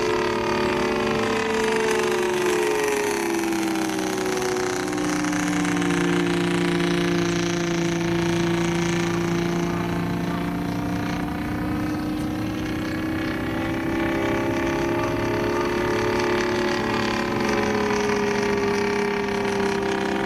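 Radio-controlled Zero Type 52 scale model aircraft in flight, its Saito three-cylinder gasoline engine running steadily with a light, even note. The pitch drops over the first few seconds as the plane passes, holds, then rises again near the end as it comes back round.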